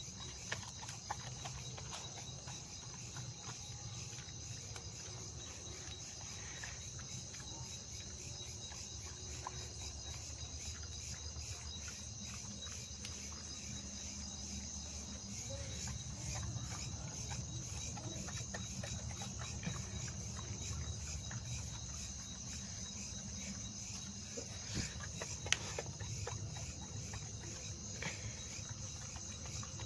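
Crickets chirping in a steady, unbroken high trill, with a low hum underneath and a couple of faint clicks near the end.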